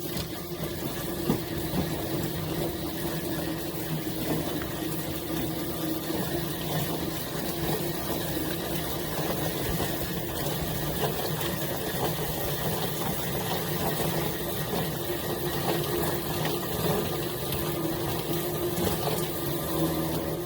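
Chicken plucker running steadily with water spraying: a motor hum under a constant hiss of water, starting and stopping abruptly.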